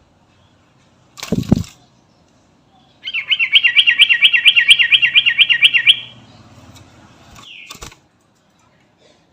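Yellow-vented bulbul (trucukan) singing a fast, regular warbling trill for about three seconds, about five wavering notes a second. A short thump-like rustle comes before it, and a brief falling note follows.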